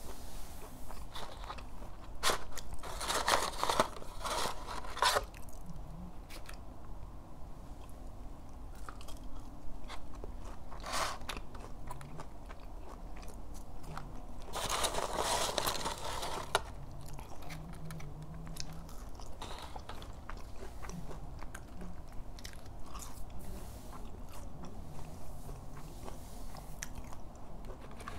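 Chewing and crunching of McDonald's chicken nuggets and fries, with louder, crunchier stretches about three seconds in, near eleven seconds and around fifteen seconds.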